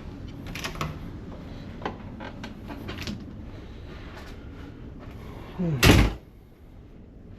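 A door shutting with one loud thud about six seconds in, after a few light clicks and rattles of handling; the background hum is quieter once it has closed.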